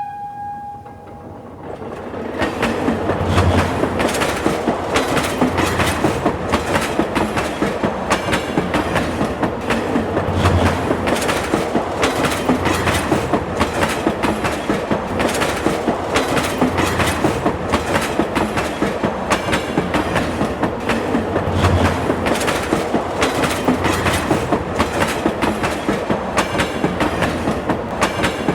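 A train running along the track, its wheels giving a rapid, regular clickety-clack over the rail joints that builds up about two seconds in and then runs steadily. A horn tone is dying away at the very start.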